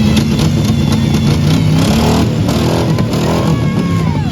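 Car engines running and revving, their pitch rising and falling, typical of demolition derby cars in the arena.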